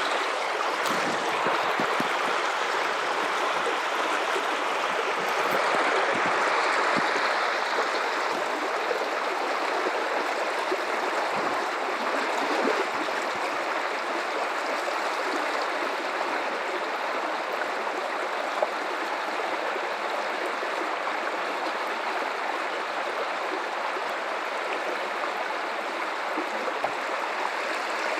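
Guadalupe River water running steadily, an even rushing flow with no break.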